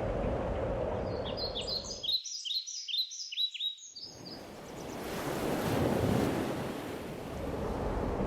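Steady rush of ocean surf that cuts off abruptly about two seconds in. A songbird sings a quick series of descending chirps, about three a second, starting over the surf and carrying on alone until about four seconds in. Then the surf noise returns.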